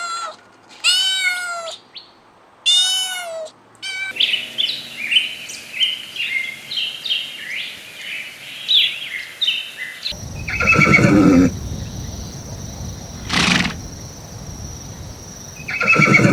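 A cat meowing twice, then a dense run of short high bird chirps. About ten seconds in, a louder, deeper animal call sounds over a steady high tone, with further calls near the middle and the end of that stretch.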